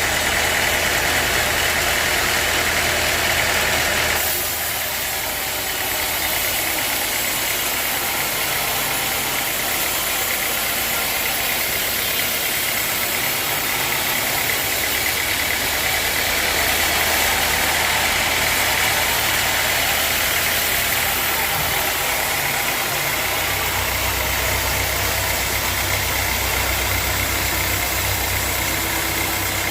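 Sawmill machinery running steadily with its engine going. The sound shifts about four seconds in, and a deeper hum grows stronger from about twenty-three seconds.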